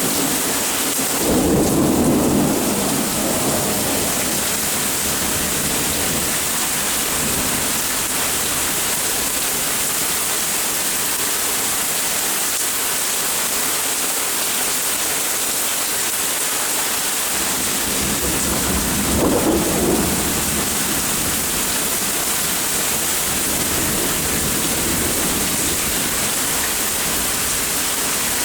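Steady rain with two short rumbles of thunder, one about a second in and another a little before the twenty-second mark.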